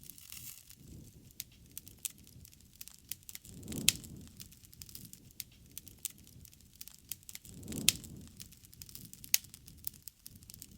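Wood fire crackling with many small snaps, and a low whoosh of flame building to a loud pop about four seconds in and again about eight seconds in.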